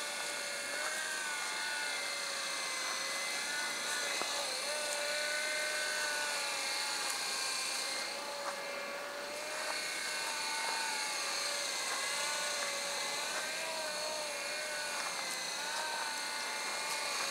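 Radio-controlled model helicopter flying: a steady whine from its motor and rotor that wavers up and down in pitch, dipping briefly about eight seconds in.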